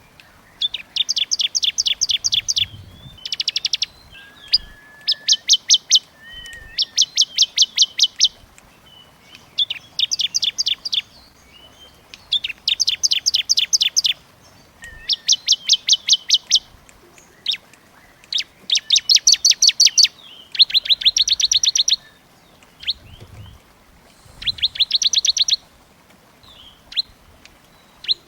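Small songbirds singing fast, tight trills: about a dozen bursts of rapidly repeated high notes, each lasting a second or so, with short calls between them.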